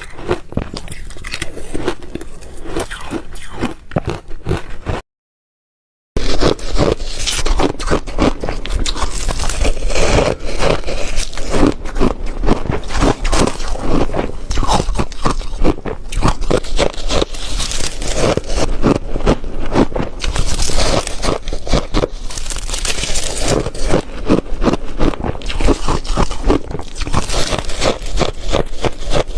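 Ice being bitten and crunched between the teeth close to the microphone, a fast, continuous run of crunches. About five seconds in the sound cuts out for about a second, then the crunching comes back louder.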